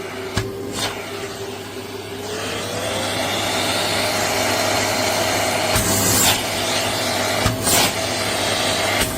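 Pet grooming vacuum with clipper attachment running with a steady motor hum and rushing air. About two seconds in, the motor pitch rises and the suction gets louder. A few knocks and clicks come near the start and later on.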